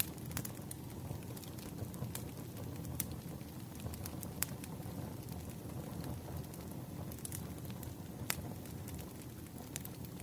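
Crackling wood fire: a steady low rumble with sharp pops and snaps scattered irregularly.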